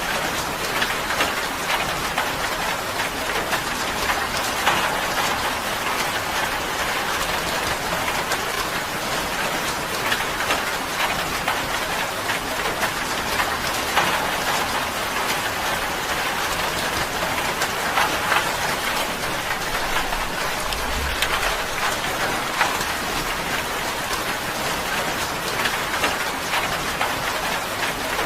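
Steady rain drumming on a tin roof: a dense, even patter of drops with sharper individual hits scattered throughout.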